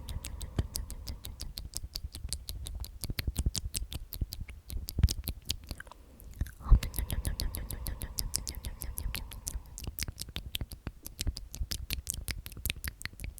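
Close-miked ASMR mouth sounds: a steady run of fast, wet lip and tongue clicks as the word "omnomnom" is whispered over and over.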